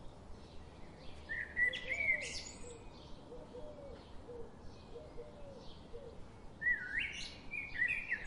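Birdsong: a short phrase of swooping, chirping notes about a second in and another near the end, with fainter, lower calls between them.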